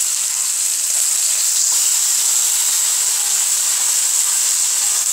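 Boiled taro leaves frying in hot oil in a pan, with a steady hissing sizzle as the water from the wet leaves cooks off while they are stirred.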